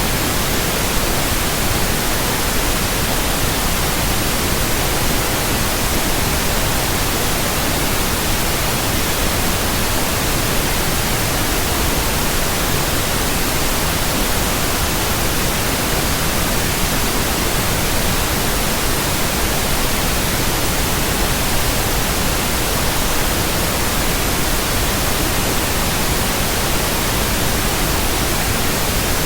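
Steady white noise: an even, unchanging hiss spread across the whole range of pitch, with no events or changes.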